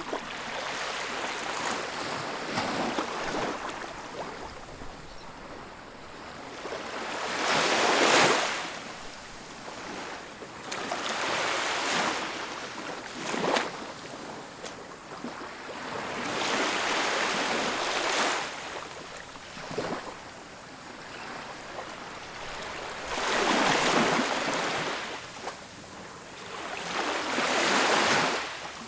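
Ocean waves breaking on a beach: rushing surf that swells and falls away every four to six seconds, with brief sharper splashes between the bigger breakers.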